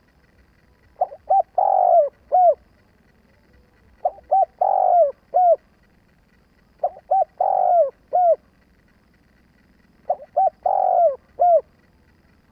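Spotted dove (chim cu gáy) cooing, four times about three seconds apart. Each phrase is two short coos, a longer drawn-out coo, then one short final coo. It is the decoy bird's calling song.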